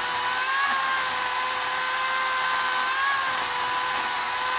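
A small power tool's motor running steadily at one even, fairly high pitch, wavering slightly every couple of seconds.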